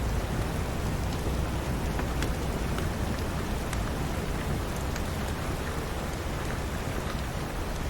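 Steady heavy rain, with sharp crackles from a wood fire in a fireplace scattered about once a second.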